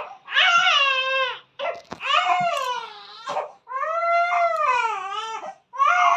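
A three-and-a-half-month-old baby crying: a run of drawn-out wailing cries, each a second or more long, with short catches of breath between them.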